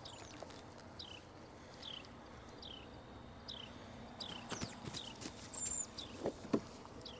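A series of short, high chirps, each falling in pitch, repeated about once a second, with a few soft knocks in the second half.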